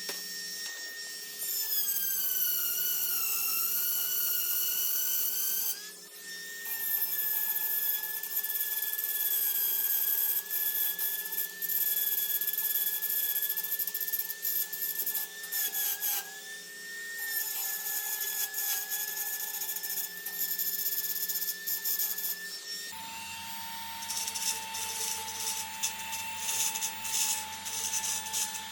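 High-speed rotary grinder spinning as it blends welds down on a steel dirt bike frame, its whine dipping and wavering in pitch as the bit is pressed against the metal, with a couple of brief pauses. About three quarters of the way through the whine settles to a lower, steadier tone.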